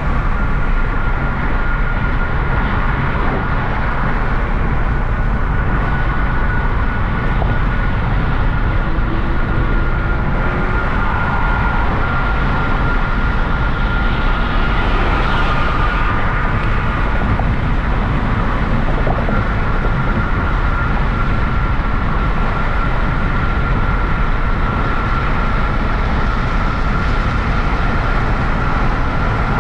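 Hyundai Genesis Coupe 3.8 V6 on the move: a steady mix of engine and road noise with a strong low rumble and a thin steady high tone, swelling briefly about halfway through.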